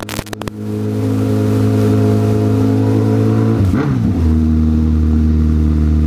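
Honda CB1000R inline-four engine running steadily at low revs after a few sharp clicks at the start. About four seconds in the revs drop and the engine settles to a steady, lower note.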